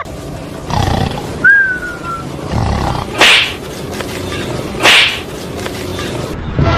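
Animal noises: a short, slightly falling whistle-like call about one and a half seconds in, then two loud, harsh cries about three and five seconds in.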